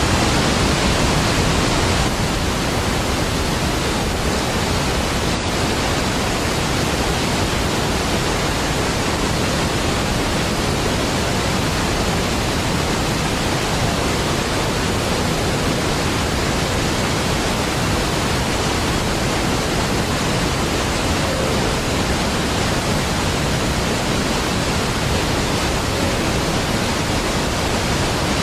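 A large waterfall giving a steady, even rush of falling water, dense from deep to high, with a slight drop in level about two seconds in.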